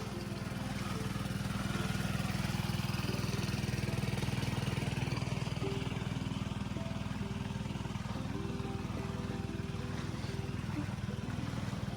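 Small petrol engine of a gold suction dredge running steadily at a constant speed.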